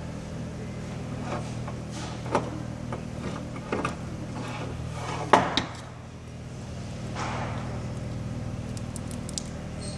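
Metal winch parts handled on a workbench: a few scattered clicks and knocks, the loudest about five seconds in, over a steady low hum.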